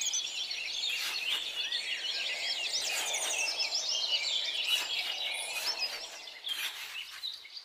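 A chorus of small birds chirping and twittering, many short rising and falling calls overlapping, thinning out near the end.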